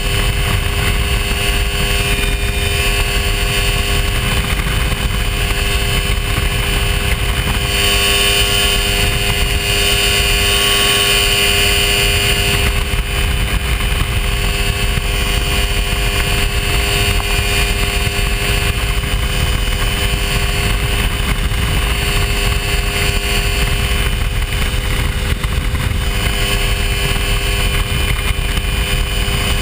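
Hy-Tek Hurricane ultralight's engine droning steadily in flight, over a heavy low rush of wind noise. The engine note brightens slightly about eight seconds in and settles back a few seconds later.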